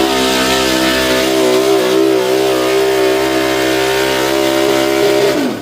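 Pulling truck's engine held at high revs under load, its pitch wavering slightly. Near the end the revs fall away and the sound drops off sharply.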